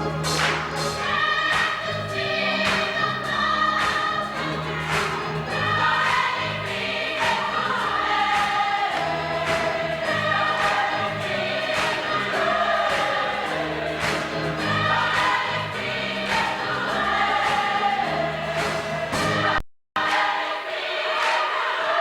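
Gospel choir singing in full voice over instrumental accompaniment with a steady beat. The sound cuts out for a split second near the end.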